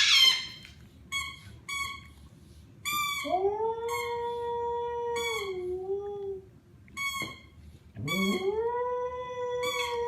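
A dog howling: a few short high yelps, then two long howls, each rising at the start and then holding steady.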